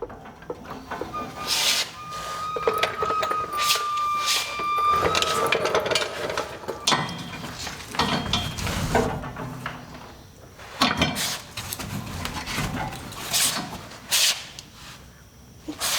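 Knocks and clanks of hands-on work in a garage, with a thin, steady high tone for about four seconds starting about a second in.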